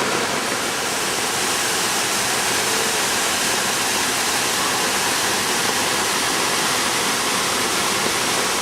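Waterfall rushing, a dense, steady hiss of falling water without break.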